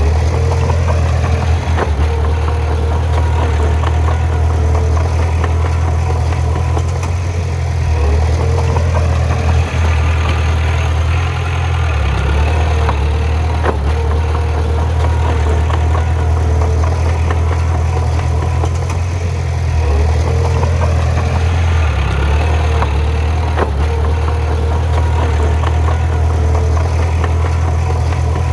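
Heavy diesel engine of earthmoving equipment running steadily with a deep hum, with occasional clanks and rattles and slight swells in power.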